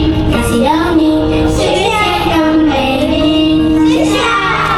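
A girl's high singing voice carrying a melody with held, sliding notes over musical accompaniment.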